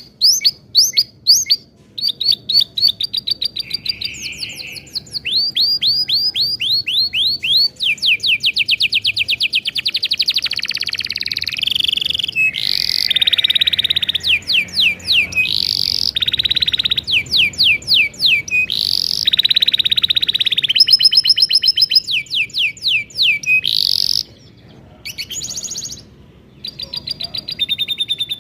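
Domestic canary singing a long, continuous song of rapid trills, each phrase a fast run of repeated notes that changes every second or two, with dense rolling passages and short breaks near the end.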